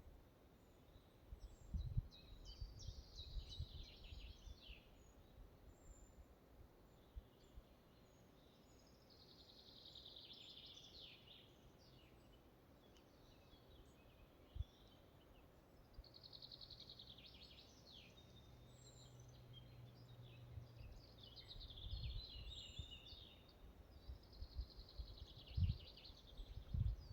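Faint forest ambience with a songbird repeating a short song phrase of about two seconds, roughly every six seconds. Occasional low thumps can be heard under it.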